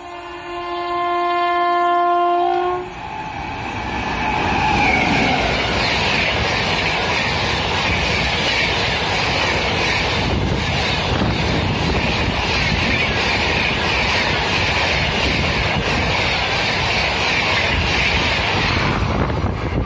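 A WAP-7 electric locomotive's horn holds one long, steady blast and cuts off about three seconds in. Then the Rajdhani Express runs through at speed, its coaches making a loud, steady rush that drops away just before the end.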